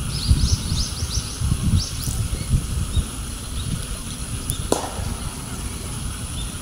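A small bird gives a quick run of about seven short, high chirps in the first second and a couple more soon after, over a steady low rumble of wind on the microphone. A single sharp click comes about three-quarters of the way through.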